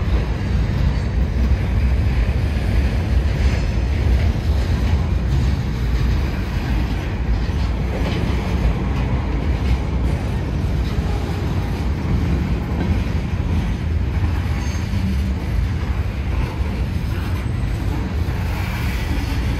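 Norfolk Southern freight train's centerbeam flatcars and covered hoppers rolling past close by: a steady, loud rumble of steel wheels on the rails with some clacking over the rail joints.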